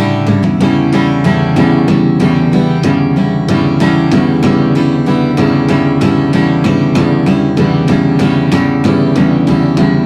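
Guitar strummed in a steady, even rhythm, about four strums a second, with no singing.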